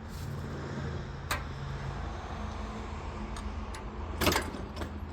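A small electric ride-on locomotive's motor humming low, with a few sharp clicks and a louder clank about four seconds in.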